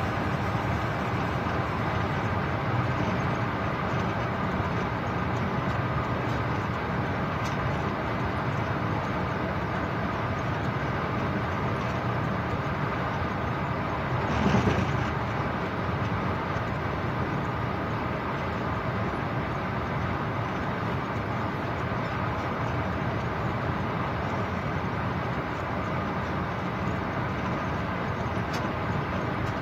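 Steady running noise of a train under way, heard from inside the locomotive cab, with a brief louder rush about halfway through.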